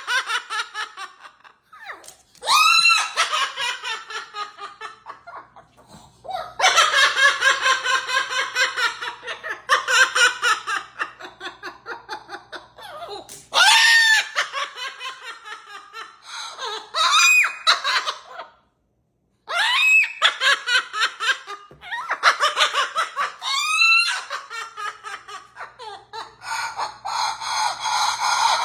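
A parrot imitating human laughter in long bouts of quick, repeated 'ha-ha-ha' pulses, broken several times by a sharp upward swoop in pitch.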